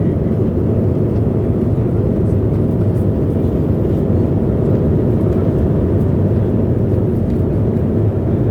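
Steady low rushing noise of a jet airliner in flight, heard inside the passenger cabin.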